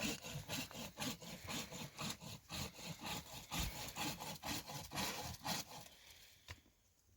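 Hand saw cutting firewood, with back-and-forth strokes about two a second that stop about six seconds in.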